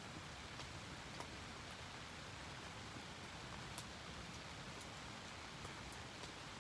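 Steady rain falling, an even hiss with a few sharp clicks scattered through it, the clearest about four seconds in.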